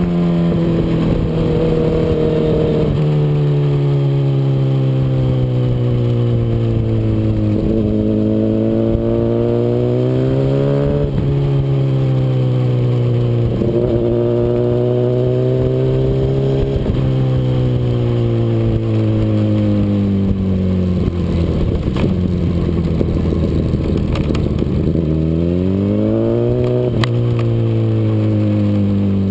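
Honda CBR RR sport bike's inline-four engine at racing speed, its note climbing and falling several times as the bike accelerates, shifts gear and slows for corners, with a steep climb near the end. Wind rush runs underneath.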